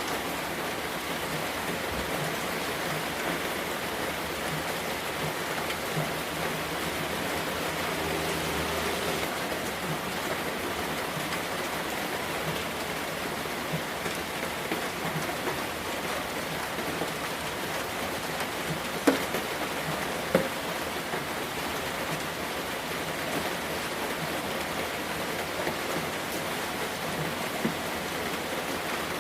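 Steady rain falling, with scattered individual drops ticking on a surface and two sharper drip taps a little past the middle.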